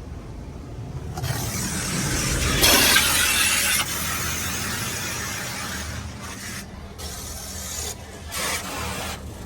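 Laserwash G5 touchless car wash spraying water jets onto the car, heard as a hissing wash from inside the cabin. It swells about a second in, is loudest around three seconds, then eases with a few brief gaps near the end as the spray passes.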